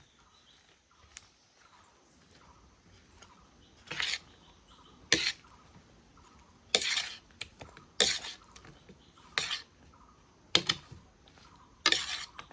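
A utensil clattering and scraping against a cooking pan, seven sharp strokes a second or so apart starting about four seconds in, as fried momos are mixed with chili powder and sauce.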